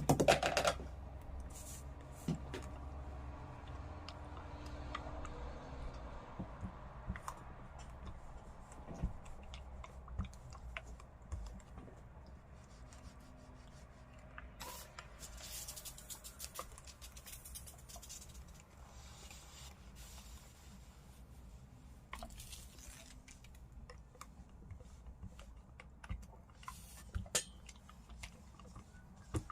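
Scattered small clicks and rustles, like fabric and sewing tools being handled, over a low steady hum.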